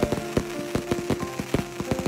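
Fireworks crackling overhead: a dense, irregular run of sharp pops and crackles, several a second. Held notes of music sound underneath.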